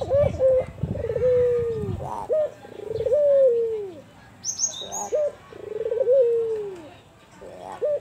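Albino ringneck dove (burung puter) cooing repeatedly in a soft, mellow voice: each coo is a short note followed by a long drawn-out note that falls at the end, repeating every two to three seconds.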